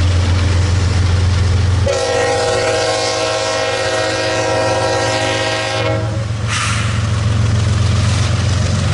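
Locomotive air horn sounding one long blast of about four seconds, several notes together as a chord, over the low rumble of a train. After the horn stops, rail and wheel noise rises.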